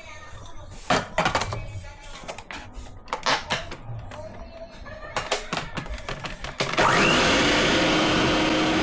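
Light clicks and knocks of kitchen utensils. Near the end a small electric kitchen motor switches on, its whine rising quickly as it spins up, then runs at a steady speed, as when mixing cake batter.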